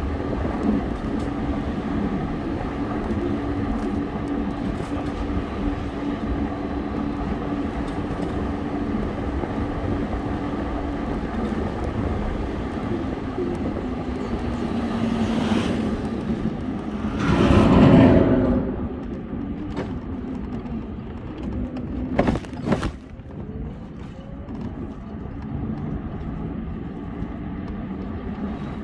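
Steady road and traffic noise heard while riding, with a low steady engine-like tone through the first half. About two-thirds of the way through, a vehicle passes close by and swells loudly, then fades, followed by a couple of sharp clicks.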